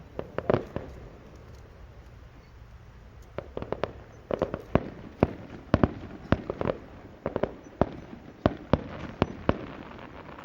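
Fireworks bursting in sharp separate bangs: a couple about half a second in, then after a short lull a string of bangs, about two a second, running until near the end.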